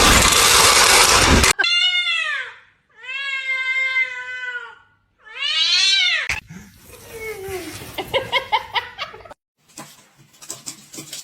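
A loud rushing noise for about the first second and a half, then a cat calling three times: a falling meow, a long drawn-out one, and one that rises and falls. Quieter scattered clicks and knocks follow.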